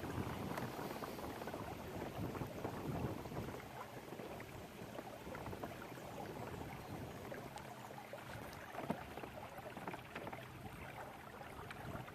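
Water lapping and splashing against a kayak's hull, a loose string of small irregular splashes.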